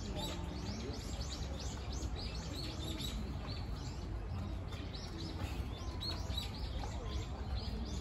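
Small birds chirping, many short high chirps coming several a second, over a steady low rumble.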